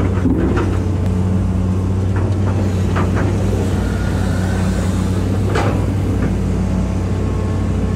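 Hitachi EX200-5 excavator's diesel engine running steadily as the machine works, with a couple of brief sharper sounds about three and five and a half seconds in.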